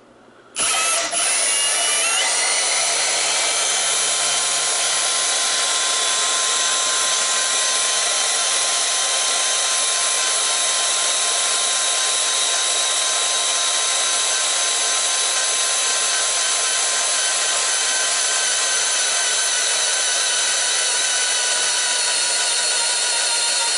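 Bandsaw blade cutting through the welds of a steel transformer core, a loud steady high-pitched metal-cutting whine with several ringing tones, starting abruptly about half a second in.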